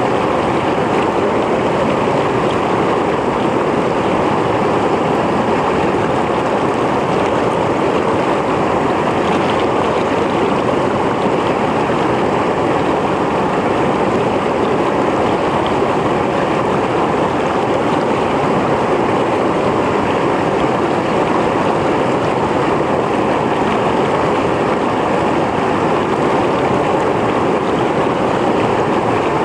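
Mountain stream flowing steadily, water rushing and splashing over rocks.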